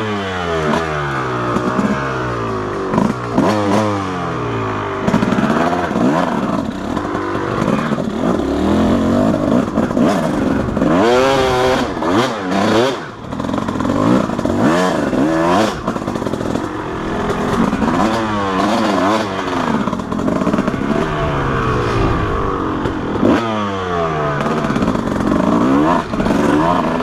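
Two-stroke 250 dirt bike engine revving hard under load on a steep hill climb, its pitch climbing and dropping again and again as the throttle is worked.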